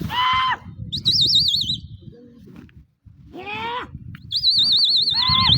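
A high warbling whistle blown twice, the second time long. Between the whistles come three short honk-like calls, over low outdoor noise.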